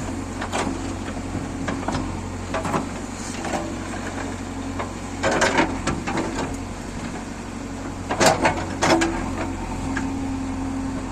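JCB 3DX backhoe loader's diesel engine running steadily while it digs, with clattering clanks and scrapes from the bucket and arm twice, about five and eight seconds in.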